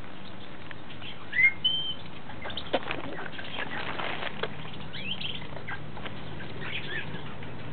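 Parrot with its head caught in a mouse trap, struggling: wing flapping and scuffling, with a few short high chirps, the loudest about a second and a half in.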